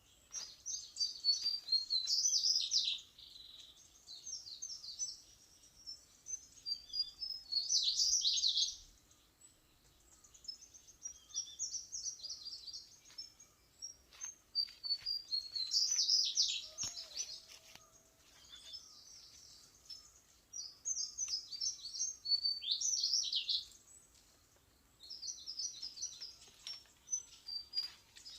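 Songbird singing: bursts of rapid, high chirping notes a couple of seconds long, repeated every few seconds.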